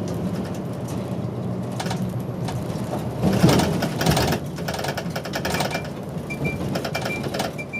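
City route bus running and rattling as it slows into a bus stop, with a louder rushing surge about three and a half seconds in. A short electronic beep starts repeating about twice a second near the end.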